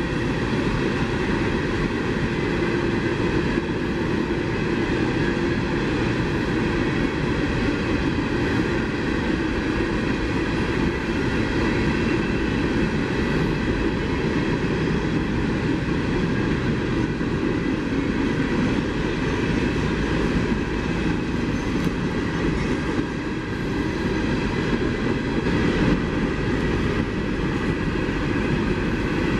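CSX coal train rolling past: a steady, continuous noise of wheels on rail with several steady high tones ringing over it.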